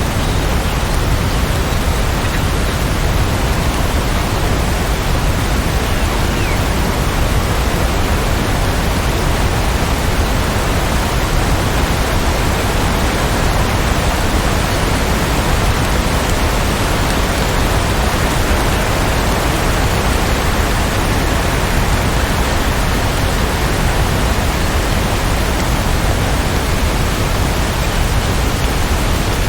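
Rain falling in a steady, even hiss, with no separate drops or thunder standing out.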